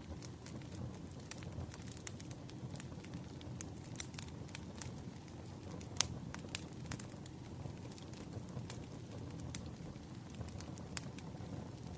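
Firewood burning: a steady low rush broken by irregular sharp crackles and pops, the loudest pop about six seconds in.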